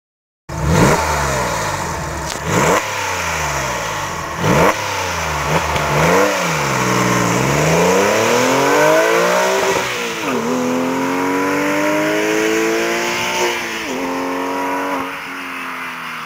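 Porsche 996 GT3's flat-six engine and exhaust, revving a few times and then accelerating hard: the pitch climbs steadily and drops sharply at a gear change about ten seconds in, climbs again and drops at a second shift near fifteen seconds.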